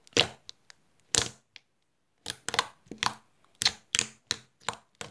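Chewy rubber-band slime squeezed and worked by hand, giving a string of sharp, irregular pops and clicks, with a brief pause about two seconds in.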